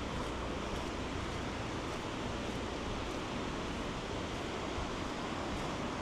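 Steady rushing of a swollen, flooded river.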